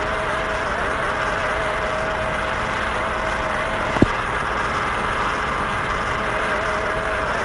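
American Flyer model railroad equipment running: a steady electric whirring hum with a slightly wavering tone over a hiss, and a single sharp click about four seconds in.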